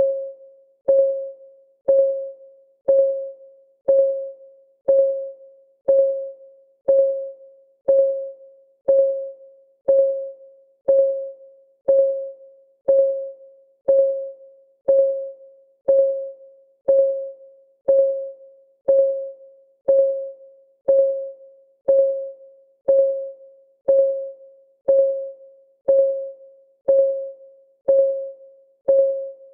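Clock ticking sound of a countdown timer: one short, pitched tick each second, perfectly steady.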